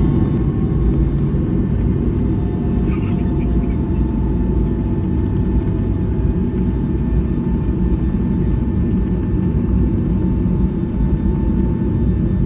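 Boeing 757-200 engine and airflow noise heard inside the cabin: a steady rumble with a faint whine over it.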